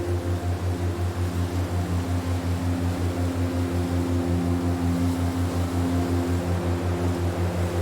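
Ambient meditation drone: several steady held tones over a deep bass tone that pulses about five to six times a second.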